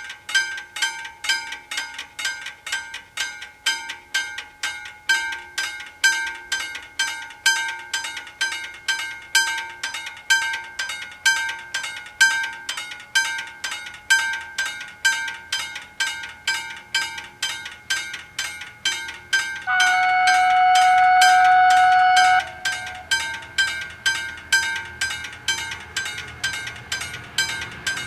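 Level crossing warning bells ringing with rapid, evenly spaced strikes. About twenty seconds in, the approaching ALn 668 diesel railcar sounds one steady horn blast of about two and a half seconds.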